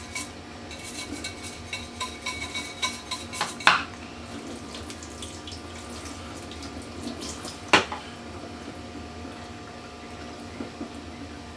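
Water running from a kitchen tap while a plastic plate is washed with dishwashing soap, with light clatter and scraping and two sharp knocks, one about three and a half seconds in and one near eight seconds in.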